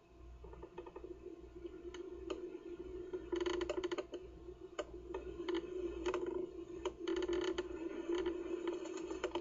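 Wind rumbling on a nest camera's microphone over a steady low hum, with scattered clicks and creaks that bunch up about three seconds in and again about seven seconds in.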